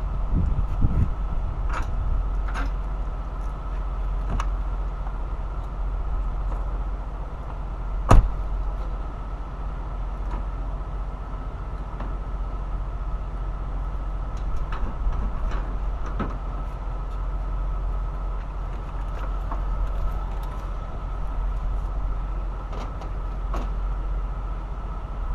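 Scattered clicks and knocks from work on a semi truck's battery box, with one loud knock about eight seconds in. Under them runs a steady low hum with a faint steady high tone.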